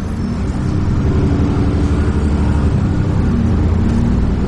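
Dennis Trident 2 double-decker bus engine running with a deep, low rumble that grows louder about a second in and then holds steady.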